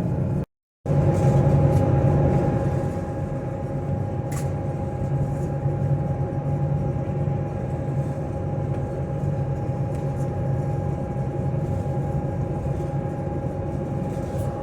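Lake Express high-speed ferry underway, its engines giving a steady low drone with a constant hum. The sound cuts out for a moment about half a second in.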